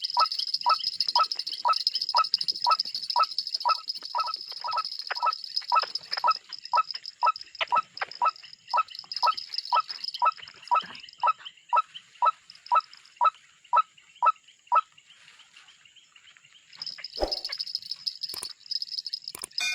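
A bird giving a long, regular run of short calls, about two a second, over a steady high-pitched hiss. The calls stop about 15 seconds in. A single thump and a few sharp clicks follow near the end.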